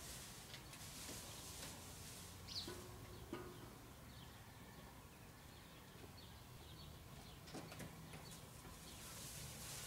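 Faint outdoor quiet with a few short bird chirps and calls, two of them low and brief a little under halfway through. Scattered faint crackles come from plastic masking film being pressed onto the side of a motorhome.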